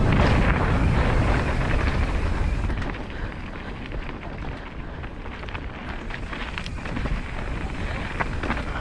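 Wind buffeting the microphone and mountain bike tyres rolling over a dirt trail, with scattered clicks and rattles. It is loudest for the first two or three seconds, then drops.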